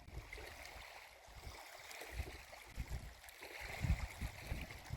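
Seaside ambience on a beach: a steady rushing wash of sea, with wind buffeting the microphone in irregular low thumps that grow stronger in the second half.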